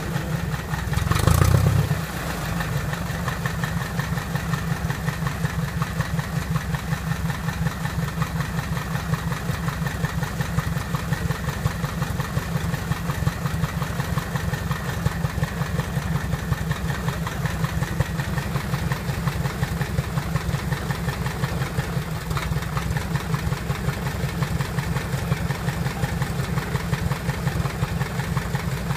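Freshly rebuilt Piper Apache aircraft piston engine idling steadily with an even, fast firing pulse, with a brief louder surge about a second in.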